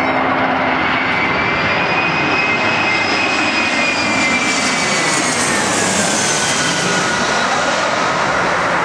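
Jet airliner passing close by, a loud engine roar with a high whine that holds steady and then falls in pitch after about five seconds as it goes past.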